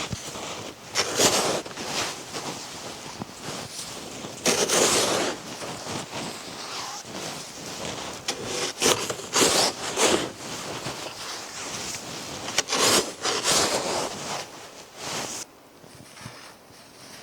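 Irregular rustling and scraping handling noise, with louder bursts every few seconds, that dies down near the end.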